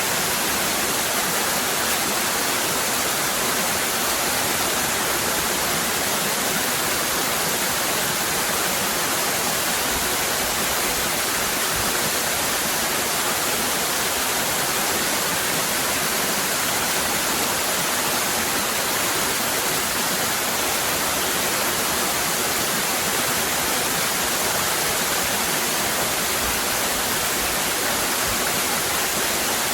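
Cascading waterfall: a steady, even rush of falling water with no breaks or changes.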